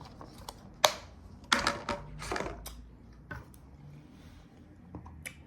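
Several sharp clicks and short scraping clatters of a utensil and a takeout food container being handled, as someone starts eating a plate of home fries.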